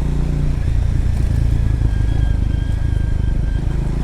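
Triumph Scrambler motorcycle engine running while ridden, its steady note easing off about half a second in and carrying on as a lower rumble.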